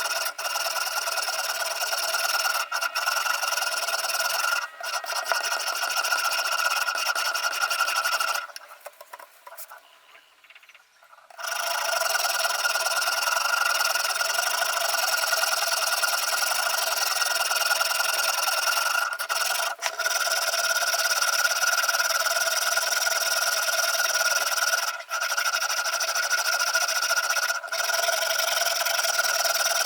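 A knife blade being stroked along a sharpening stone in a guided knife sharpener, making a continuous rasping rub with a steady ringing tone. The stroking stops for about three seconds near the middle of the first third, and there are a few brief breaks elsewhere.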